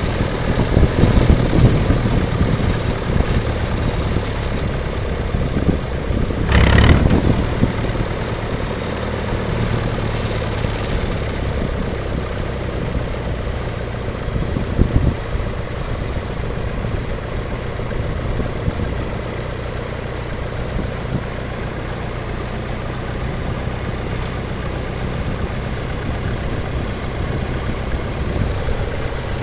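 SOM 40 tractor engine running steadily, with one brief loud burst of noise about a quarter of the way in.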